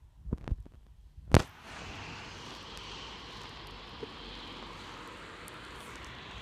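A few light clicks, then one sharp knock, followed by steady outdoor background noise such as distant traffic or wind. This fits handling noise on the camera.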